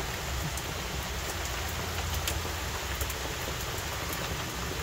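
Heavy rain falling steadily: an even hiss with scattered sharp ticks of single drops striking close by.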